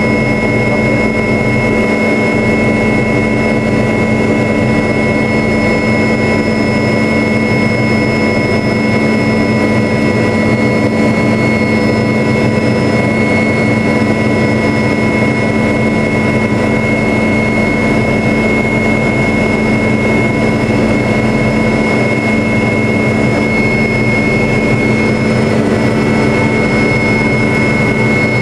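MD500 helicopter in steady flight, heard from inside the cockpit: the turboshaft engine and rotors make a constant drone with a steady turbine whine on top.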